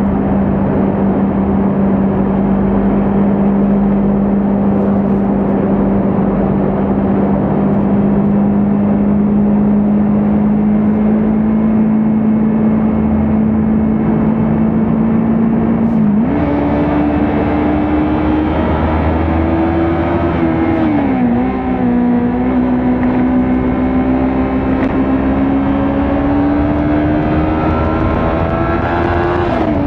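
Kawasaki Ninja 400's parallel-twin engine running at cruising revs over steady wind and road noise, the engine note slowly rising. About halfway through the revs jump up with a downshift and the engine pulls harder, then drop a few seconds later at an upshift, climb again, and drop once more at another upshift near the end.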